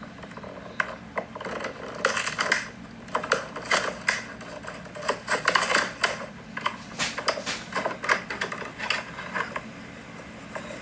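Irregular clicks, taps and rustles of a small diecast toy being handled, with quick clusters of sharp clicks from about a second in until near the end.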